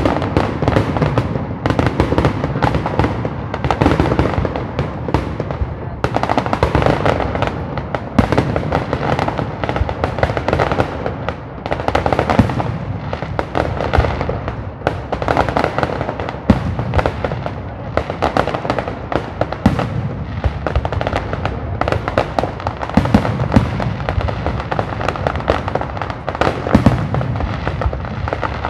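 Fireworks display: aerial shells and mortars bursting in a dense, continuous run of bangs and crackles.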